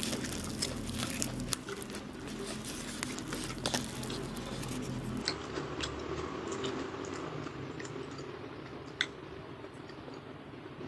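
A person chewing a mouthful of sushi with the mouth closed: soft wet clicks and crackles, dense in the first half and sparser later, with one sharper click about nine seconds in.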